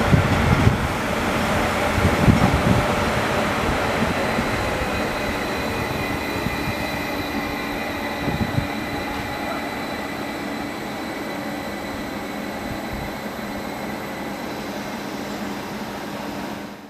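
A train moving through a railway station: heavy low thuds of wheels over rail joints in the first few seconds, then a steady rumble with thin high wheel tones that slowly fades as it draws away.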